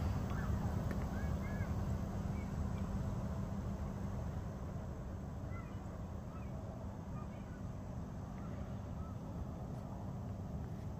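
Freight train rolling by with a steady low rumble that slowly grows quieter, with small birds chirping faintly over it.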